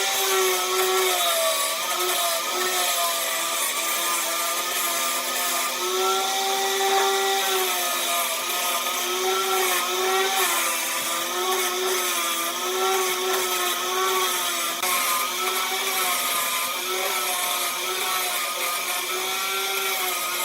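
Electric woodworking power tool running continuously as it works wood. Its motor whine wavers up and down in pitch as the load changes.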